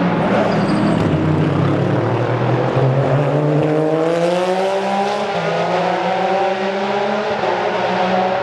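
GT racing car engine at high revs, its pitch climbing steadily about halfway through as the car accelerates, then holding high.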